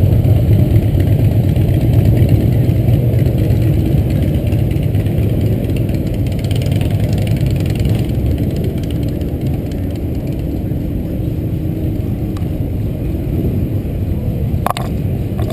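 Car engine running with a deep, steady low rumble that eases off slightly about halfway through.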